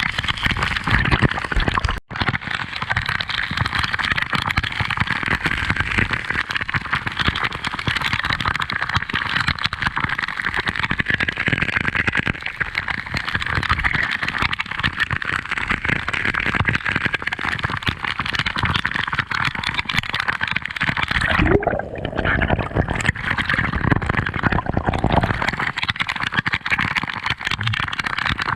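Gurgling, churning water noise heard underwater, a steady hiss over uneven low rumbling. About three-quarters through it briefly thins, with a short rising tone.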